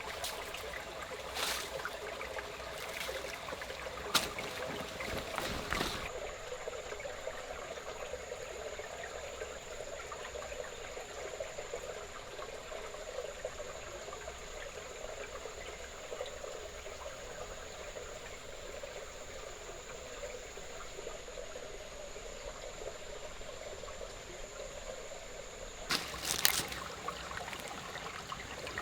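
Water trickling steadily. A few sharp knocks in the first six seconds and again near the end, and a thin steady high tone from about six seconds in until shortly before the end.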